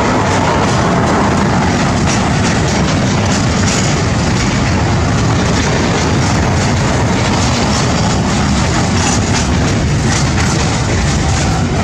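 Freight train passing through the station at speed, with a steady, loud rolling noise of wagon wheels on the rails.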